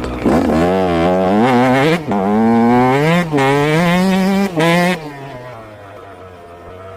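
Yamaha YZ125 single-cylinder two-stroke motocross engine accelerating hard, its pitch climbing, with three brief cuts about two, three and four and a half seconds in as it shifts up. About five seconds in it backs off and the sound falls away to a much quieter, lower note.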